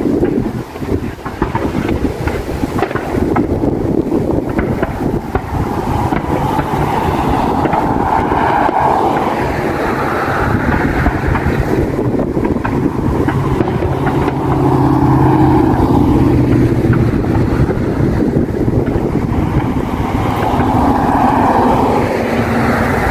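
Highway traffic passing close by, vehicles swelling and fading one after another, with wind buffeting the microphone. A low engine drone from a passing vehicle swells in the middle.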